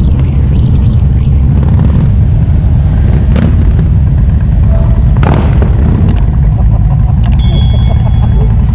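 Harley-Davidson V-twin motorcycle riding along, a loud, steady low rumble of engine and exhaust mixed with wind on the microphone.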